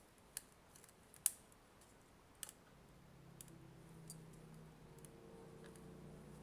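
Three sharp clicks of a tool working at a sealed plastic power-adapter case, the loudest about a second in. About halfway through, faint music with held notes comes in.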